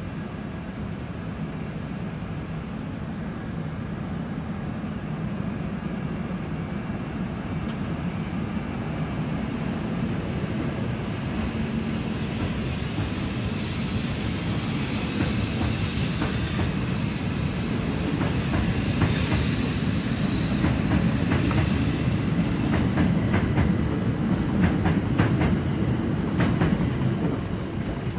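Akita Shinkansen train running on the rails, with a steady rumble that grows gradually louder. Wheels clack over rail joints through the second half.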